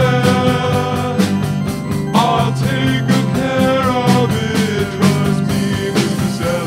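Rock band with a country lean playing a stretch of the song without lyrics: guitars holding and bending notes over a steady drum beat.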